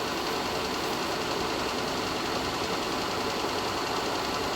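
Kearney & Trecker horizontal milling machine running steadily, its spindle turning the milling cutter with an even mechanical hum.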